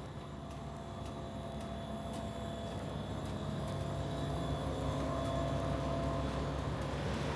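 Engine hum of an approaching vehicle, growing steadily louder.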